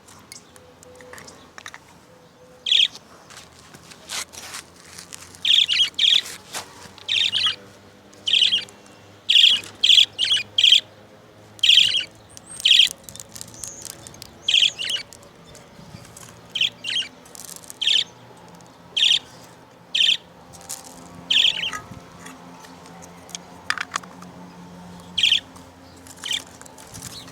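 Budgerigars chirping: many short, sharp high calls at irregular intervals, some in quick pairs or clusters.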